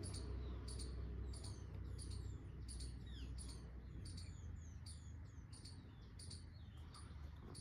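Small songbirds chirping: one bird repeats a short, sharp chirp about three times every two seconds, while others add quick falling whistles, over a low steady rumble.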